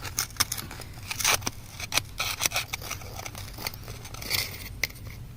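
Irregular scraping and sharp clicking of a hand tool working at rock and earth, as small stones and fragments are picked loose.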